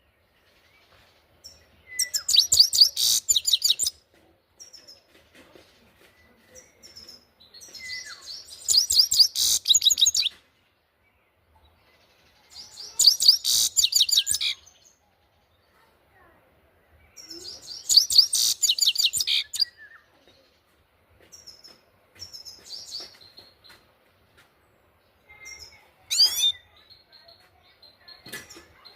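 Grey-headed goldfinch singing: about five bursts of rapid high song, each one to two seconds long, with short single chirps and rising call notes in the pauses between them.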